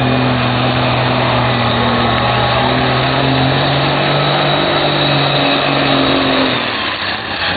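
Semi truck's diesel engine running hard at a steady high pitch during a sled pull, then backing off about six and a half seconds in.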